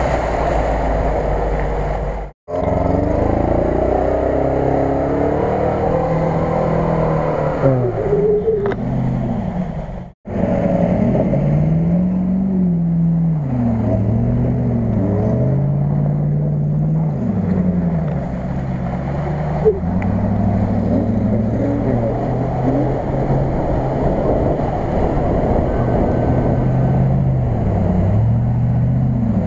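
Off-road 4x4 engines, a Lada Niva and then a Land Rover Discovery, revving up and down over and over as they plough through shallow water, with water splashing. The sound cuts out suddenly twice, for a moment each time, where one clip gives way to the next.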